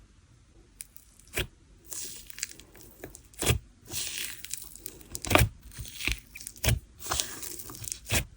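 Sand-texture slime being squished and stretched by hand, giving a run of sharp pops and grainy crackling from about a second in.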